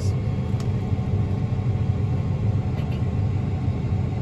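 A tractor's diesel engine running steadily, a constant low rumble, as it pulls the disc drill.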